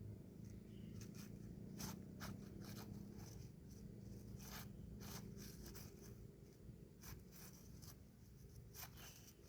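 Faint scattered rustling and scraping, short irregular handling or movement noises over a low steady hum.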